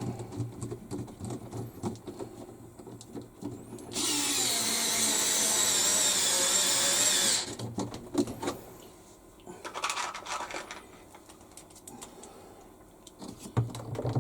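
A power screwdriver running for about three seconds, near the middle, as it drives one of the long screws that fasten the washing machine's wash tub, with a steady whine that wavers in pitch. Light clicks and handling knocks come before and after it.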